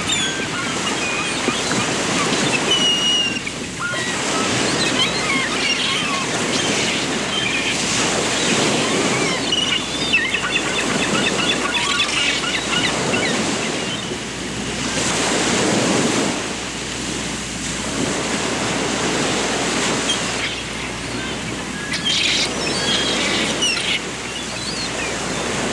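Small birds chirping, short high calls scattered throughout, over a constant rushing noise that swells and eases every few seconds.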